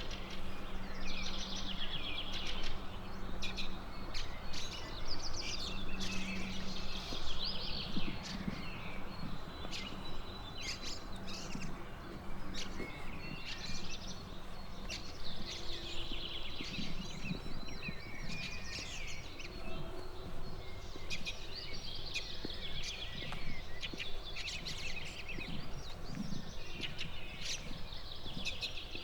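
Several songbirds singing in repeated trilling and chirping phrases over a steady background rush, with a low steady hum through the first half.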